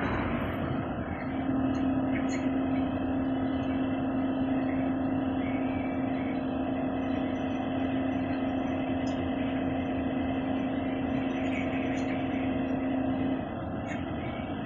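Engine of a heavy machine running steadily under load, with a steady whine that cuts out about 13 seconds in.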